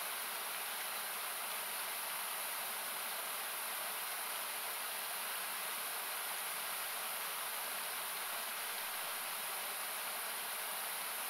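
Steady rushing of a river, equalised so that it comes through as an even hiss, brightest in the high range.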